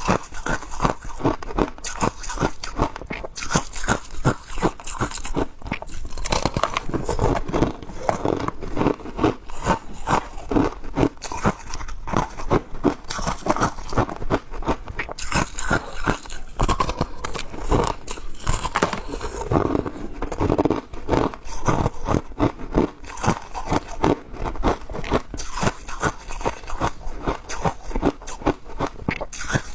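Ice being bitten and chewed close to the microphone: a continuous run of sharp, crackling crunches, several a second.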